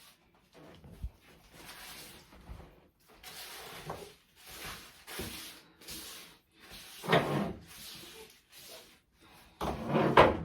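Intermittent rustling and knocking of small objects being handled, with two louder clatters, one about seven seconds in and one near the end.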